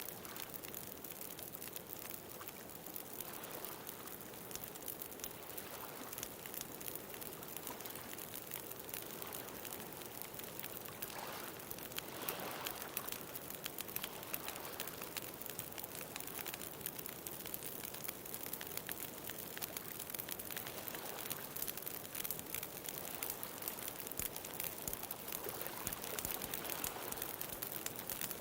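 Bonfire crackling with a constant patter of small pops, over ocean waves washing ashore; one wave swells up about twelve seconds in and another near the end.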